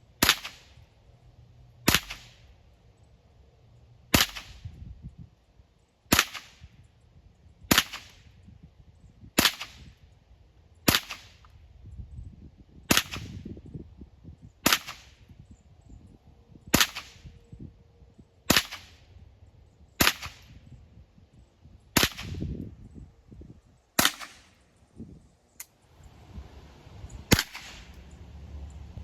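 Ruger 10/22 .22 rifle firing single shots at a steady, unhurried pace, about fifteen sharp cracks each a second and a half to two seconds apart.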